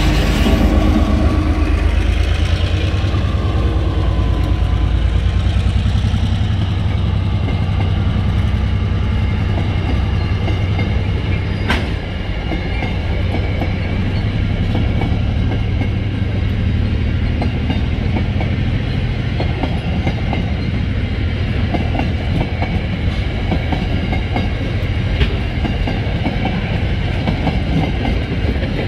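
TasRail diesel locomotive 2010 passing close by as it pulls away, its engine running under load, followed by a long string of empty ballast hopper wagons rolling past with a steady clickety-clack of wheels over the rail joints. A single sharp clank sounds about twelve seconds in.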